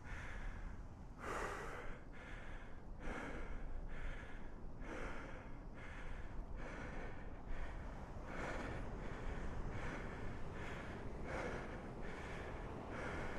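A man breathing hard and fast, about one breath a second, winded from straining to lift a stuck heavy motorcycle.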